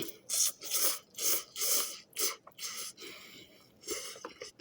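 Person slurping hot ramen noodles and soup in a quick series of short, hissing slurps, most of them in the first three seconds.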